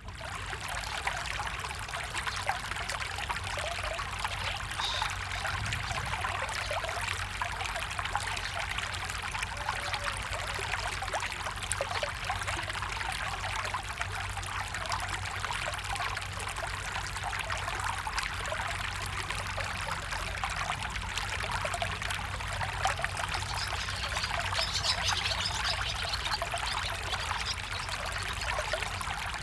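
Stream of water trickling and babbling steadily.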